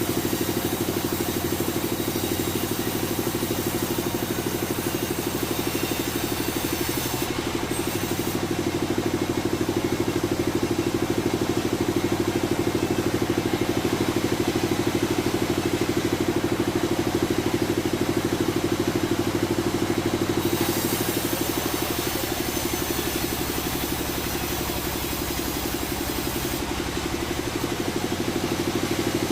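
Sawmill machinery running steadily, a loud engine-like drone with a rapid pulse, its tone shifting briefly about seven seconds in and again for several seconds past the twenty-second mark.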